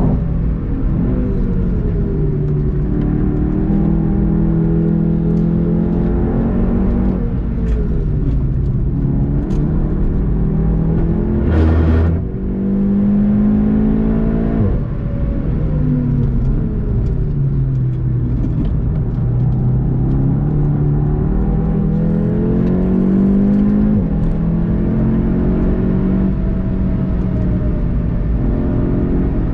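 VW Golf 7 GTI TCR's turbocharged 2.0-litre four-cylinder engine under hard driving, its pitch climbing under throttle and dropping with gear changes and braking several times over. A short loud thump comes about twelve seconds in.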